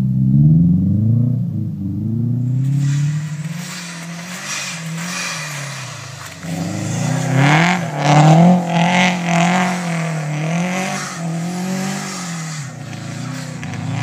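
A car engine revving up and down over and over as the car slides around a snowy field. From about three seconds in, a loud rushing hiss of tyres churning and throwing snow joins it, loudest around eight seconds.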